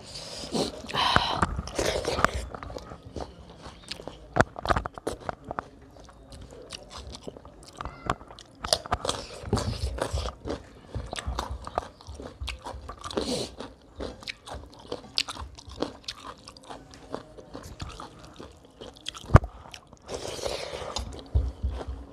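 Close-miked chewing and mouth noises of a person eating rice mixed with fish curry, with many short sharp smacks and clicks scattered throughout and a few louder, longer bursts of chewing.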